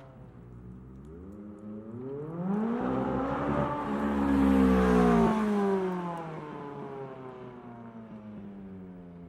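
McLaren 570S twin-turbo V8 running through a Boost Logic titanium exhaust. The engine note rises in pitch and grows louder for a few seconds, is loudest about halfway through, then falls and fades away.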